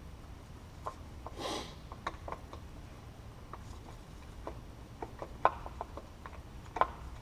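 Hand tools working on a motorcycle engine: scattered light metallic clicks and knocks, with a short scrape about a second and a half in, over a steady low hum.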